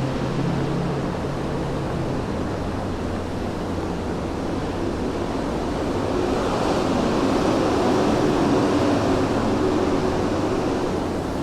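City street ambience at night: a steady low traffic hum, with a vehicle passing. Its engine hum and rushing tyre noise swell from about halfway through and fade near the end.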